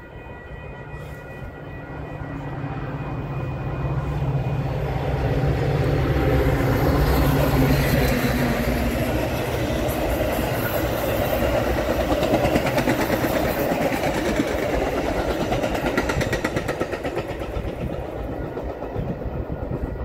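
A Metra diesel-hauled push-pull commuter train of double-deck cars passing close by. The locomotive's diesel engine builds in over the first few seconds, then the wheels clack steadily over the rail joints as the cars go by, easing off near the end.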